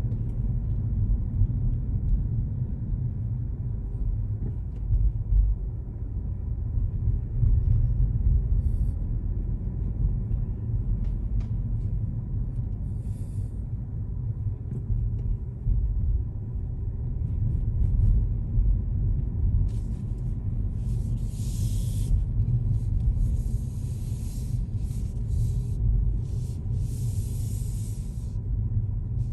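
Steady low rumble of a car being driven, with several bursts of hiss starting about twenty seconds in.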